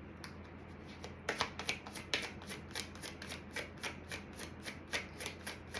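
Oracle cards being shuffled by hand. Starting about a second in, there is a quick, even run of soft card snaps and slaps, about four a second.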